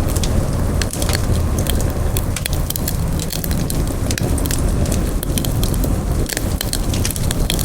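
Wood campfire burning with irregular sharp crackles and pops over a steady low rumble of flame.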